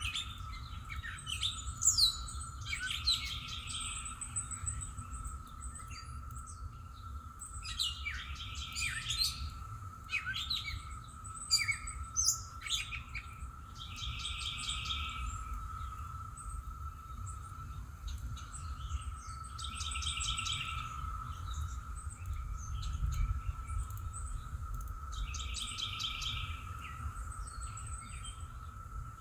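Songbirds singing: one bird repeats a short, rapid trilled phrase about every five and a half seconds, and others add scattered chirps. Underneath runs a steady one-pitch drone and a low rumble.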